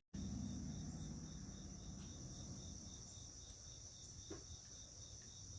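Insects calling steadily: a continuous high-pitched buzz, with a second chirp pulsing about four times a second just below it. A faint short rising sound comes about four seconds in.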